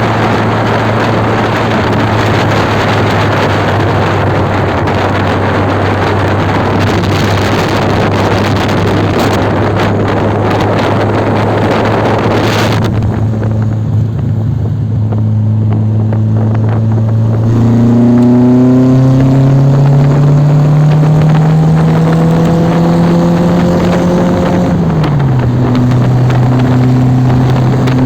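A vehicle engine running under a loud rushing noise. Later it climbs slowly in pitch as it accelerates, then drops suddenly, like an upshift.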